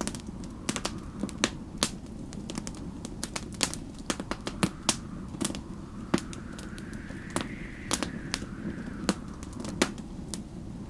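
Wood fire crackling, with many irregular sharp pops over a low steady rumble. Snowstorm wind howls faintly behind it, its pitch rising and then falling in the second half.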